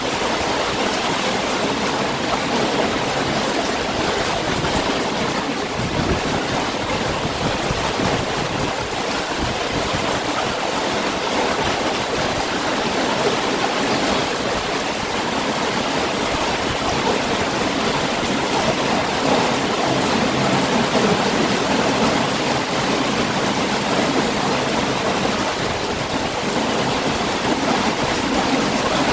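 Heavy rain falling in a steady, dense hiss, with no thunder.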